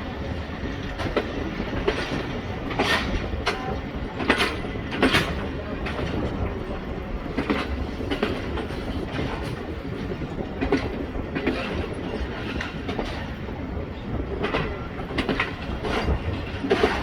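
Train coaches rolling into a station over a steady low rumble, their wheels clacking over rail joints in irregular knocks about every second.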